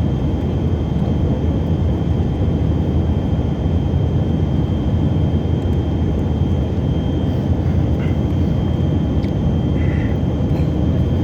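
Steady in-flight cabin noise of a Tupolev Tu-134AK airliner: a dense, even low rumble of its two rear-mounted Soloviev D-30 turbofans and the airflow, with a thin steady high whine above it.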